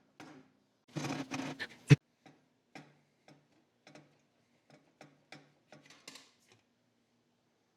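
Light metallic clicks and knocks at about two a second from work on a motorcycle exhaust, with a burst of rattling about a second in and one sharp, loud metal clunk just before two seconds; the clicks then thin out and stop.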